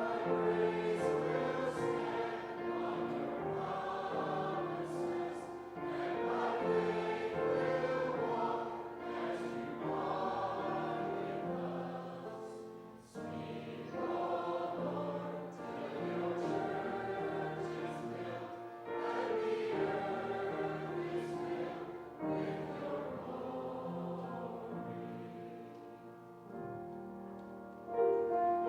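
Many voices singing a hymn together in phrases, with a brief pause about halfway through.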